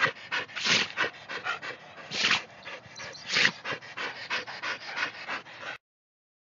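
German shepherd dog in a sneezing fit: quick panting breaths broken by a few loud, sharp sneezes, apparently from dust or pollen in her nose. The sound stops suddenly near the end.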